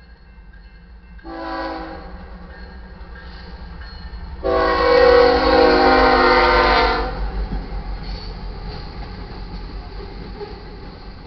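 Freight locomotive air horn, on the lead unit, a GE ES44C4: a short blast, then a long blast of about two and a half seconds, over the low rumble of the passing train. The short-then-long pattern is the close of the standard grade-crossing horn signal.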